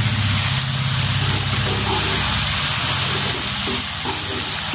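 Spice paste and onions sizzling and hissing in a wok as a splash of water cooks off in the hot oil, stirred with a wooden spatula. A steady low hum runs underneath.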